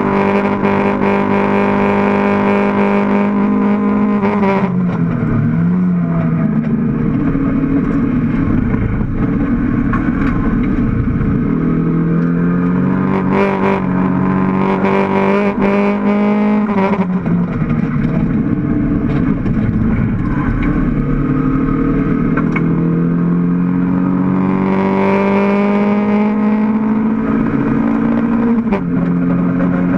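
Toyota MR2 Mk1 race car's mid-mounted four-cylinder engine heard from inside the cabin, running hard under racing load. Its pitch climbs in long pulls and falls back sharply several times at gear changes or lifts.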